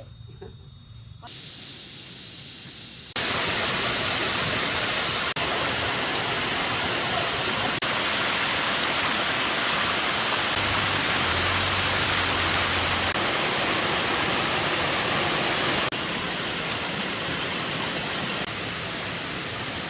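Steady rushing water noise, a dense even hiss. It is faint at first, jumps abruptly louder about three seconds in, and steps down slightly near the end.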